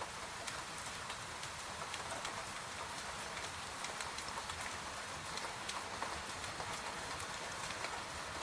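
Gentle rain falling steadily, with many separate drops ticking.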